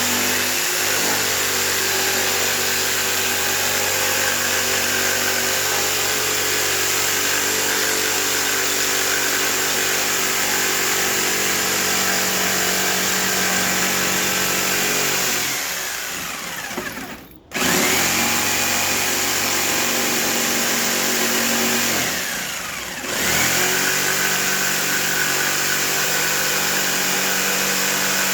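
Electric power saw running with a freshly fitted sharp blade. The motor is released and winds down with falling pitch about 16 seconds in, stopping briefly before starting up again; it eases off and picks back up about 22 seconds in.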